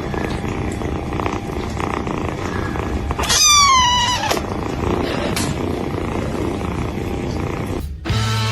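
A cat purring steadily, with one loud meow that falls in pitch about three seconds in.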